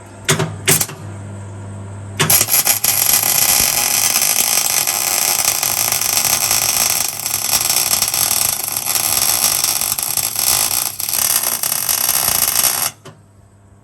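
Gas-shielded MIG (wire-feed) welder arc crackling steadily for about ten seconds as a weld is laid on steel, starting about two seconds in and cutting off sharply near the end. Two sharp clicks come first over a low steady hum.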